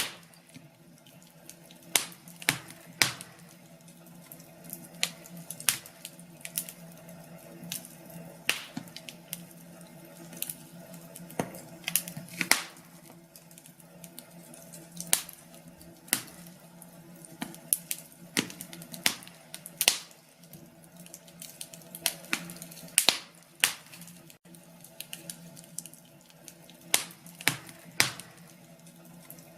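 Wood fire crackling in a fireplace: irregular sharp pops and snaps, sometimes several a second, over a faint steady background.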